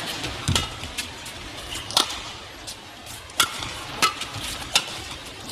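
Badminton rally: rackets striking the shuttlecock in a series of sharp cracks, less than a second to about a second and a half apart, over steady arena crowd noise.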